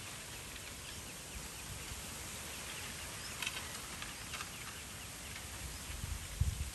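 Many short, high chirps from small birds over a steady outdoor hiss. A couple of low thumps come near the end.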